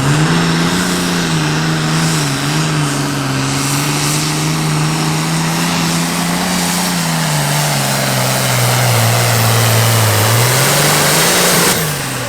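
Turbocharged diesel engine of a Super Farm pulling tractor running under heavy load on a sled pull. The pitch wavers, then sags lower as the engine loads down late in the run, rises briefly, and cuts off sharply near the end as the throttle comes off.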